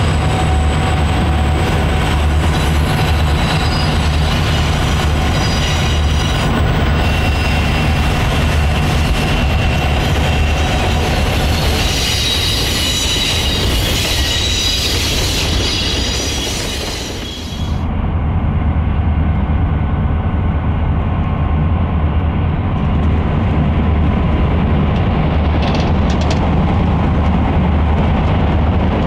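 Diesel freight locomotives running with a steady low engine rumble, while the freight cars' wheels squeal on a tight curve, loudest around the middle. The sound cuts abruptly about two-thirds of the way through, and the locomotive engine rumble carries on.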